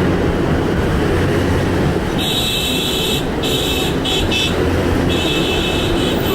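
Rushing water of a mountain waterfall, a loud steady roar. From about two seconds in, a high tone sounds on and off, breaking off several times.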